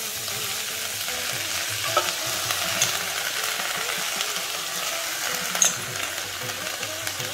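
Shredded cabbage and onions sizzling steadily in hot oil in a kadai as the cabbage goes in. A metal spatula clicks against the pan a few times, most sharply near the end.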